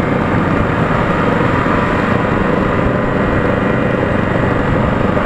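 Motorcycle engine running at a steady, even pitch while riding, with no revving.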